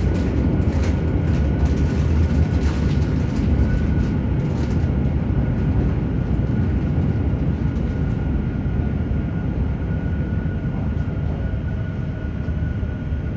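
JR Hokkaido 731 series electric train car MoHa 731-109 running, heard from inside the car: a steady low rumble under a steady whine, with sharp clicks during the first few seconds. The traction motor on the Otaru-end bogie gives an abnormal roar like an old nose-suspended (tsurikake) motor, a fault noise not normal for this series.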